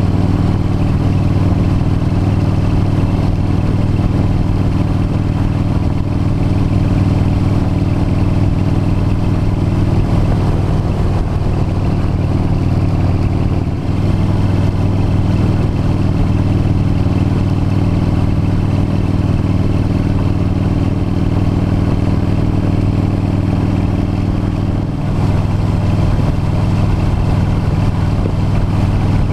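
V-twin cruiser motorcycle engine running steadily at road speed, with the note dipping briefly twice, about a third of the way in and again near the end.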